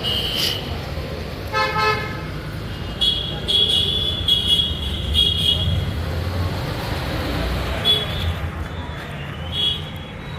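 Steady low vehicle rumble with short, high-pitched toots several times, and one deeper, fuller horn blast about one and a half seconds in.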